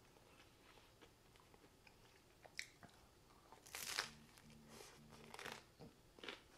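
A person chewing a bite of pizza with a crisp crust: faint crunches, the loudest about four seconds in.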